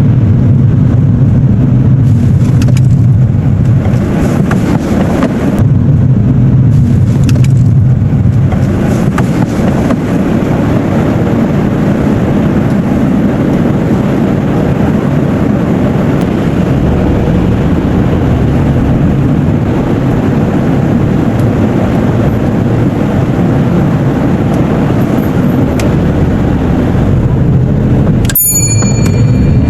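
Steady car road and engine noise heard from inside a moving car. Near the end comes a single sharp click with a short bright ring.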